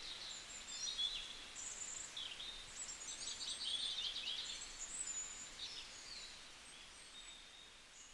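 Small birds chirping and singing: short high-pitched calls, sweeps and quick trills, busiest about three to four seconds in, over faint outdoor background hiss.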